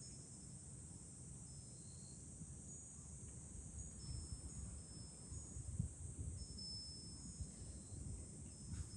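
Cicadas droning steadily in a high-pitched chorus, with a wind chime ringing a few lingering tones from about four seconds in and wind rumbling low on the microphone.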